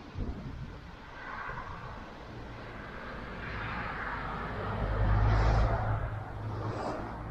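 A car passing by on the street: tyre and engine noise swells to a peak about five seconds in, with a low rumble at its loudest, then fades away.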